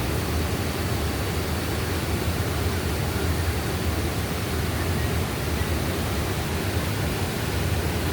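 Steady rush of a fast-flowing forest stream running high after heavy rain.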